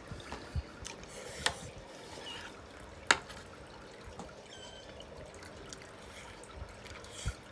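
Close, wet chewing and mouth sounds of someone eating fatty boiled lamb, with a sharp click about three seconds in and a smaller one near the start, like a fork striking.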